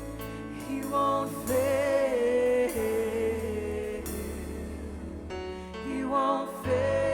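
Live worship band music with singing: sustained synth and piano chords over bass, with held sung notes coming in about a second and a half in and again near the end.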